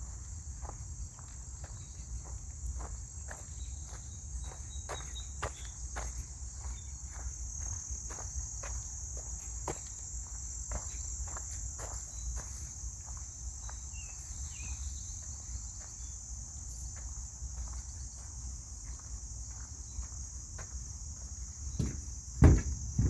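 Steady high-pitched chorus of insects, like crickets, with footsteps on a trail at a walking pace, about two steps a second. A few louder knocks come near the end.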